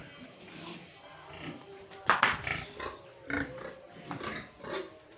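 Hungry pigs grunting and squealing for food at feeding time, in short irregular calls, with one sharp, loud squeal about two seconds in.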